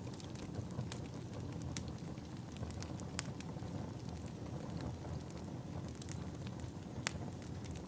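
Wood fire crackling in a fireplace: a steady low rumble of burning logs with scattered sharp pops, the loudest about two, three and seven seconds in.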